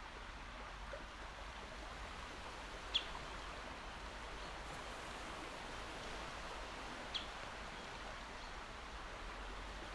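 Calm sea washing gently against the shore, a steady soft hiss of water. Two short high chirps cut through it, about three and seven seconds in.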